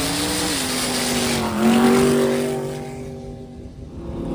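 Car engine under load. Its pitch climbs, drops about half a second in, then jumps back up with a surge at about a second and a half. The sound then fades away and comes back up near the end.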